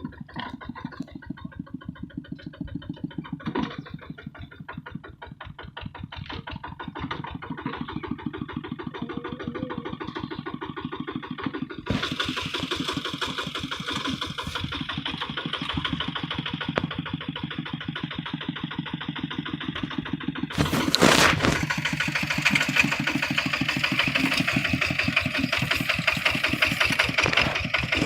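Kubota RT155 single-cylinder diesel engine of a walking tractor running with rapid, even firing pulses. About twelve seconds in it speeds up and gets louder, and after a short loud burst of noise about twenty seconds in it runs louder still.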